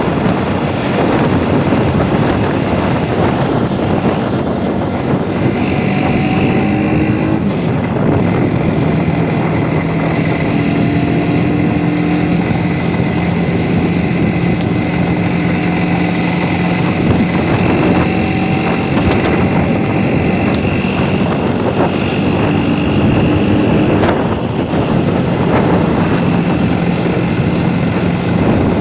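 Aprilia Tuono 125's single-cylinder four-stroke engine running under way, its pitch shifting a few times with throttle and gear changes, over a steady rush of wind noise.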